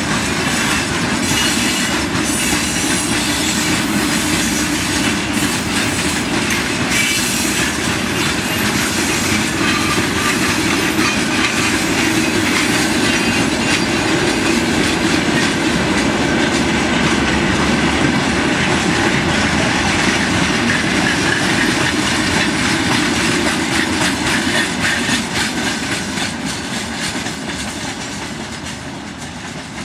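Freight wagons rolling past close by, their wheels clattering over the rail joints with a steady rumble and hiss. The noise grows quieter over the last few seconds.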